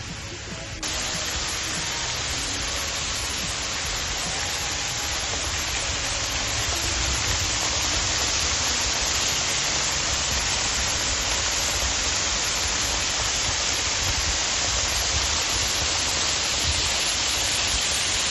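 Waterfall: a steady rush of falling water that starts abruptly about a second in and grows louder a few seconds later.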